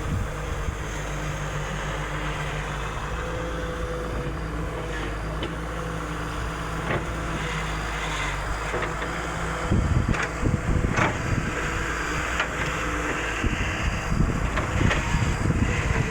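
Volvo excavator's diesel engine running steadily, with a few sharp knocks. From about ten seconds in there are rough low bursts of wind buffeting the microphone.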